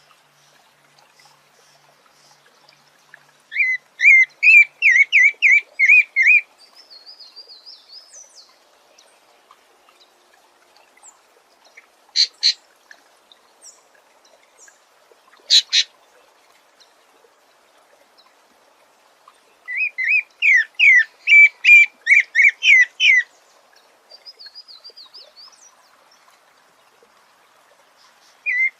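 Sabiá thrush singing. Two loud bursts of about eight quick repeated notes, each followed by soft twittering, with two short sharp notes between them.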